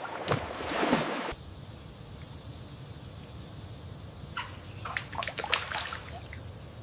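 Water splashing, which cuts off suddenly a little over a second in. Then a quieter low hum of jungle ambience, with a flurry of short falling bird calls in the second half.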